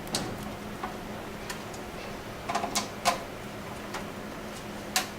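Screwdriver tightening the screws that hold a PC power supply in a metal case: scattered sharp metallic clicks and taps, a small cluster about halfway through and another near the end, over a faint steady hum.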